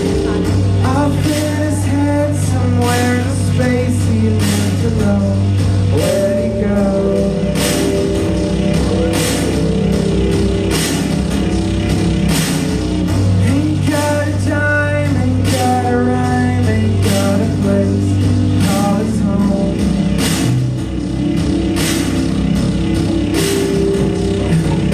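Live band playing a rock song: drums, bass and guitar, with a melody line over the top.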